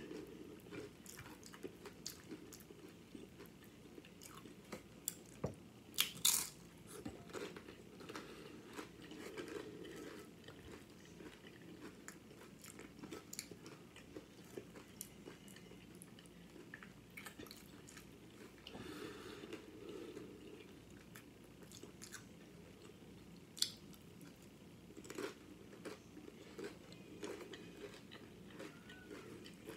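Close-up chewing of loaded nachos, tortilla chips topped with ground beef, cheese and salsa: sharp crisp crunches at irregular intervals over softer wet chewing. The loudest crunches come about six seconds in and again near the twenty-four second mark.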